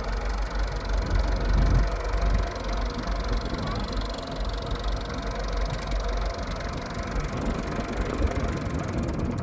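An engine running steadily at idle, a continuous low hum with a faint steady tone over it.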